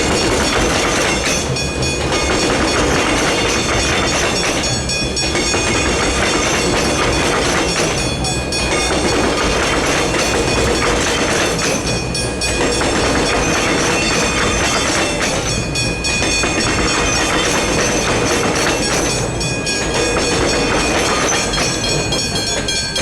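A train passing over the level crossing, its wheels clattering on the rails with a regular beat about every three and a half seconds as each carriage goes by. The crossing bells ring steadily over it.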